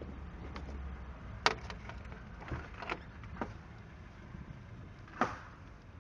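Low rumble of street traffic that fades after about a second, with a few sharp knocks; the loudest come about a second and a half in and near the end.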